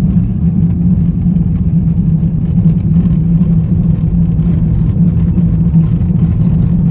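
A car on the move: a steady low drone of engine and road noise.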